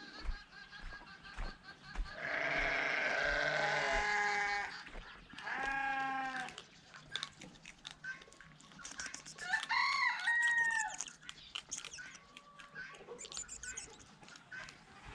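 Farmyard animal calls: a rooster crowing and goats bleating. There is a long call about two seconds in, a shorter one near six seconds, a gliding call about ten seconds in, and fainter calls between them.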